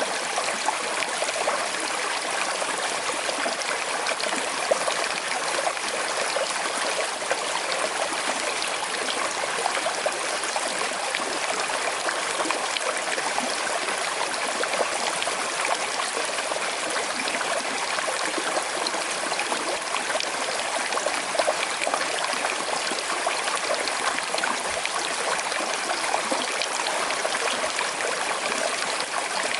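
Small river with a slight current flowing steadily, an even rushing and trickling of water.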